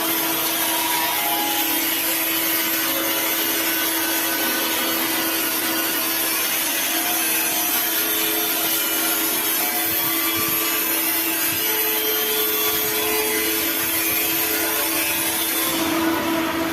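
A power tool running steadily, a constant motor whine over a dense abrasive hiss, that cuts off abruptly at the end.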